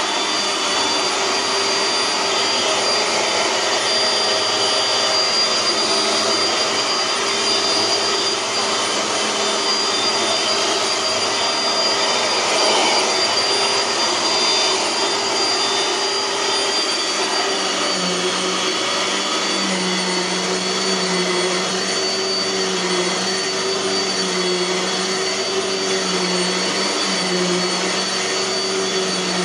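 Dirt Devil Lite upright vacuum cleaner running, a steady motor drone with a high whine. From a bit past the halfway point a low hum swells and fades about once a second.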